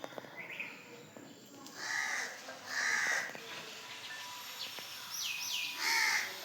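A crow cawing three times, harsh calls about a second apart and then again near the end. Another bird gives two short falling chirps just before the last caw.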